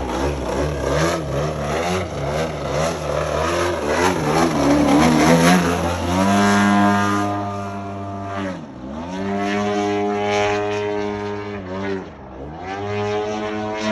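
Desert Aircraft DA-120 twin-cylinder two-stroke petrol engine of a large RC aerobatic plane, turning its propeller: a loud, wavering high-power run for about six seconds, then a steadier, lower note whose pitch dips sharply and comes back up twice.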